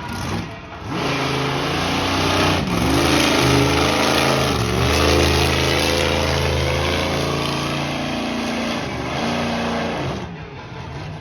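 A large vehicle engine running hard and revving, its pitch dipping and climbing again around three and five seconds in, then falling away near the end.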